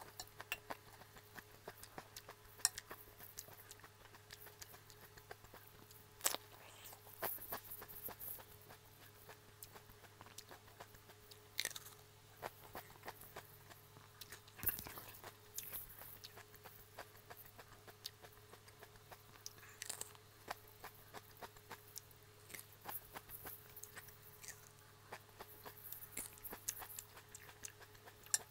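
A person chewing crunchy lettuce salad close to the microphone, with irregular crunches and wet mouth clicks, over a faint steady hum.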